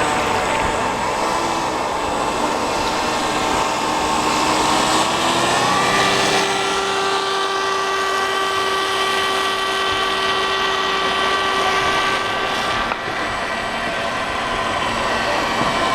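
Model boat's small electric motor whining steadily. Its pitch rises about five to six seconds in, holds, and drops back again around thirteen seconds.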